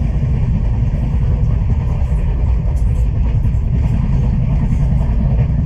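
Steady low rumble of the Konkan Express passenger train running, heard from on board.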